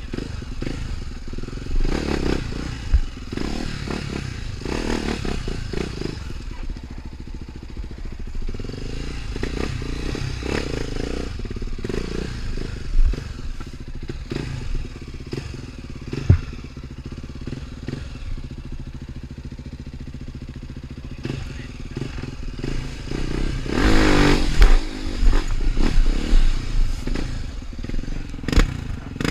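Off-road trail motorcycle engine running at varying revs, with a few sharp knocks. Near the end it is revved harder, rising and falling.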